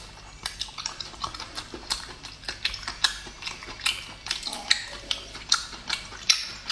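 Chewing mouth sounds from eating braised abalone: a run of sharp, moist clicks, about three a second.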